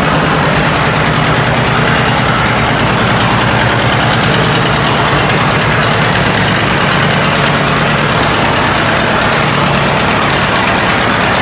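Antique pulling tractor's engine running loud and steady, its exhaust a rapid, even firing beat.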